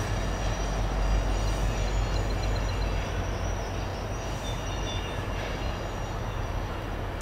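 Canadian National freight test train with an SD70M-2 diesel locomotive running on the line: a steady, deep rumble of engine and rolling cars that eases slightly over a few seconds.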